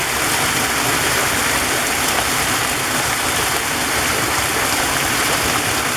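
Waterfall: water rushing and splashing in a steady, even noise that does not change.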